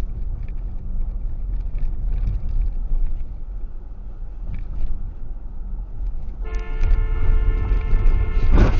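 Steady low rumble of a vehicle in motion; about six and a half seconds in, a car horn sounds and is held steadily for about two seconds before the sound cuts off.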